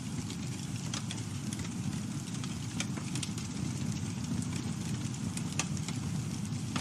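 Campfire burning: a steady low rush from the flames with scattered crackles and pops from the burning wood, one sharper pop near the end.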